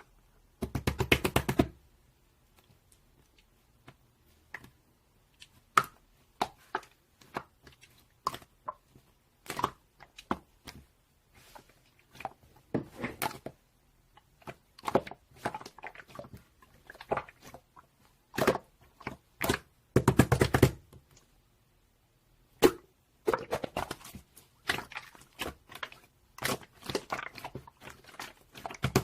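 Irregular taps, knocks and clicks on objects, with short rapid rattling runs about a second in and again about twenty seconds in.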